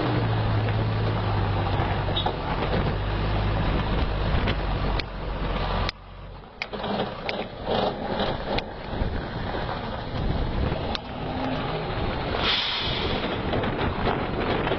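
Heavy truck's engine running with a steady low hum that breaks off abruptly about six seconds in, followed by scattered clicks and knocks over a rumbling background and a short hiss near the end.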